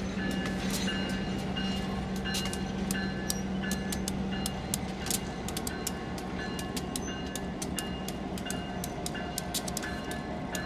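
Train hauled by a diesel locomotive rolling along the track. A steady low engine hum fades about four and a half seconds in, over a continual run of sharp clicks and short high squeaks from the wheels on the rails.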